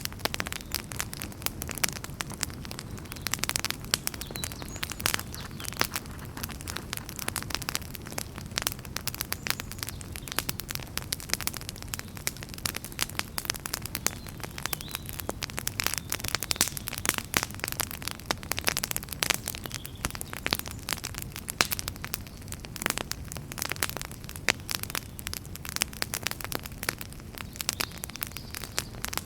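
Wood fire in a fireplace crackling, with dense, irregular pops and snaps over a low, steady rumble of burning.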